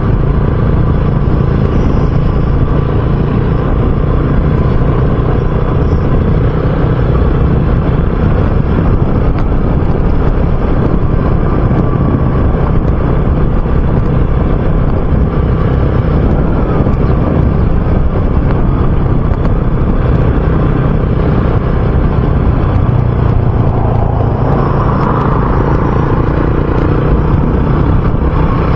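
RUSI Classic 250 motorcycle engine running steadily at a cruise, with road and wind noise on the microphone.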